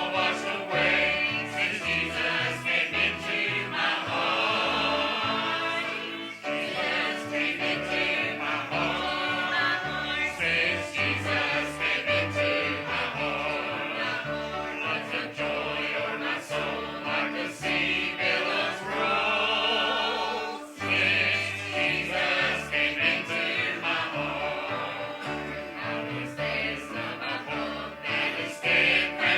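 Church choir singing a gospel hymn with instrumental accompaniment.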